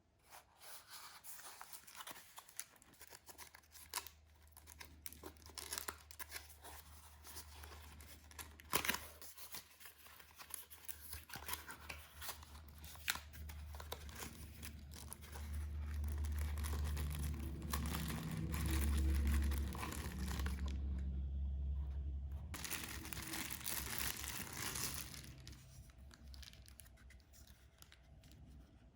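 Packaging being handled, crinkled and torn, with many small clicks and rustles. A low hum swells through the middle and fades again.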